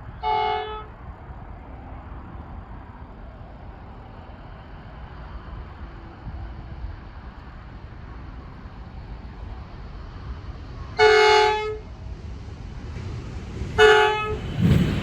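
Horn of a Pacific National NR class diesel-electric locomotive sounding three times, short, longer, then short, two of them close together near the end. Under the horn, the rumble of the approaching freight train grows louder.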